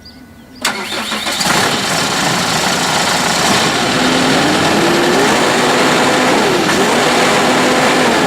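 Case IH Farmall 105C tractor's four-cylinder turbo diesel cranking and starting about half a second in, then running loudly. From about halfway a whining tone steps up and down in pitch.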